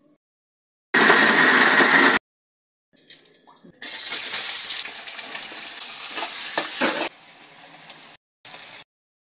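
Chopped onion dropped into hot oil in a steel kadhai, sizzling steadily for about three seconds. The sizzle is preceded by a separate second-long burst of loud noise and broken by abrupt edit cuts.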